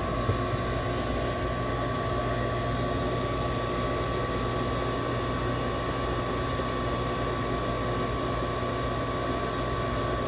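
Furnace draft inducer motor running steadily, a fan hum with a constant high whine. It runs on without the burners lighting, the pressure-switch fault being chased here.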